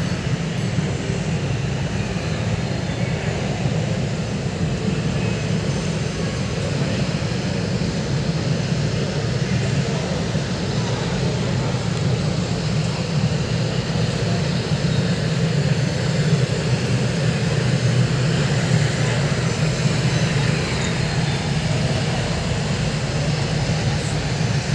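Steady low rumbling background noise of a large airport terminal hall, unchanging throughout.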